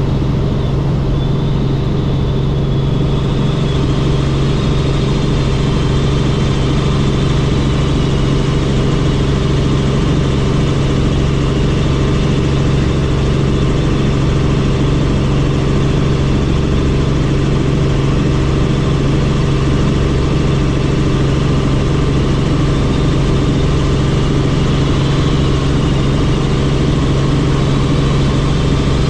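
Helicopter in flight: the steady noise of the engine and rotor, with a faint high whine above it.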